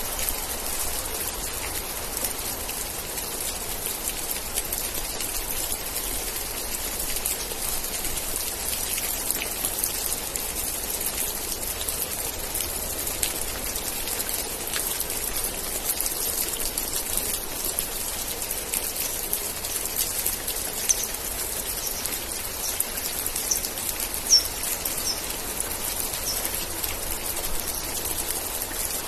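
Steady rain, a dense hiss with individual drops pattering. About two-thirds of the way in, a run of about seven short, high chirps sounds over it.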